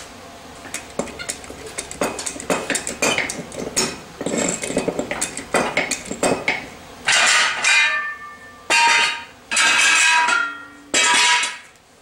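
Rapid clinking and knocking of metal on metal, then four short, loud bursts of a power tool working on the metal, each lasting under a second.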